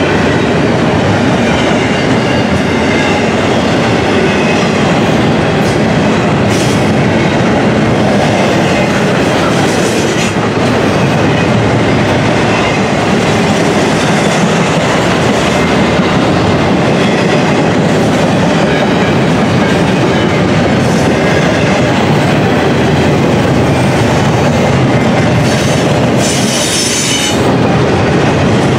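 Double-stack intermodal well cars rolling past at close range: a loud, steady rumble and clatter of steel wheels on rail joints. There is a brief high-pitched burst near the end.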